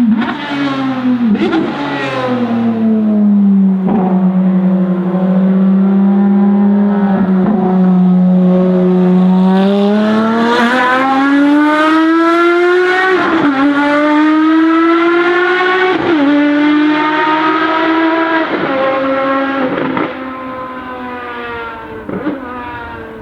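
Ferrari FXX Evoluzione's V12 racing engine running hard on track, straight-piped exhaust. Its pitch falls and holds low, then climbs for several seconds, with a short sharp break at each gearshift. It grows quieter about three-quarters of the way through.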